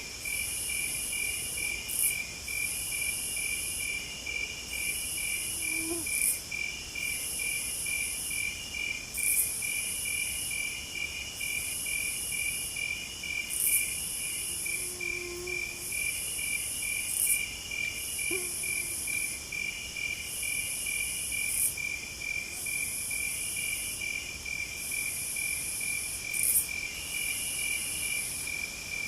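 A chorus of night insects chirping. A very high trilling band comes in bursts of about a second with short gaps, over a fast, even, repeating chirp, with a few faint low calls now and then.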